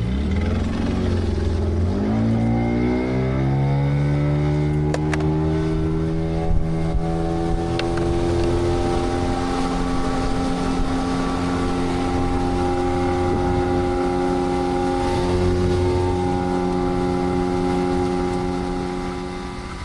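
An engine revving up, its pitch rising over the first few seconds, then running steadily at a constant, raised speed.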